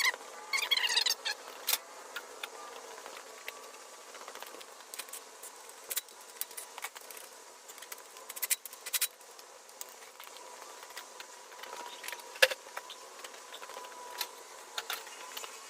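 Scattered light metallic clicks and clinks of small parts and hand tools being handled during engine work, with a brief squeaky wavering sound about a second in and a sharper knock near the end.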